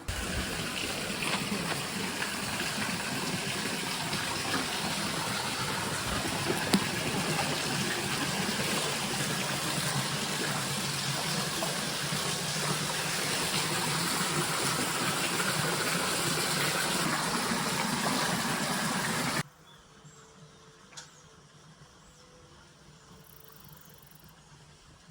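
Steady rushing noise like running water, cutting off suddenly about nineteen seconds in.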